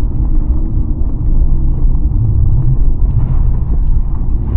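Loud, steady low rumble of a pickup truck driving through snow while towing sleds, with no distinct engine note standing out.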